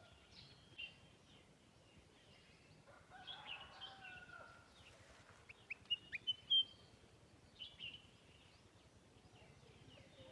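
Small songbirds calling and chirping, faint, with scattered high notes and a quick cluster of sharp chirps about six seconds in.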